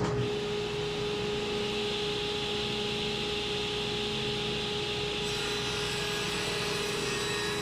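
Table saw running steadily at speed: a constant whine over an even hiss, with a little more high hiss from about five seconds in.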